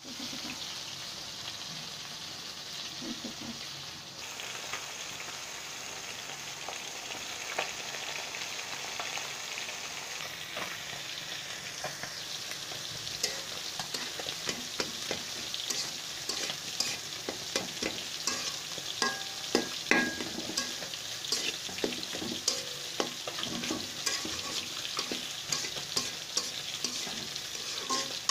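Hot oil sizzling in a wok, first under small fried fish, then under leafy greens and garlic being stir-fried. A metal spatula scrapes and clinks against the pan, often from about halfway through.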